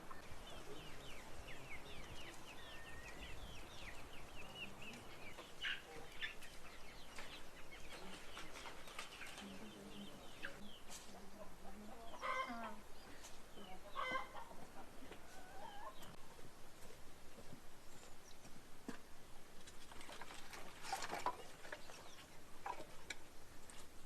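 Chickens clucking, with a few louder calls about midway and near the end, over a steady run of soft beats about three a second.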